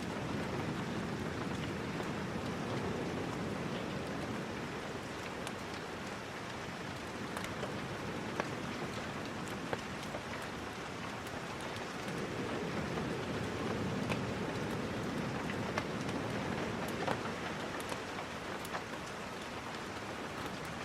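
Steady rain falling, with scattered sharp drips and ticks, swelling slightly in the middle.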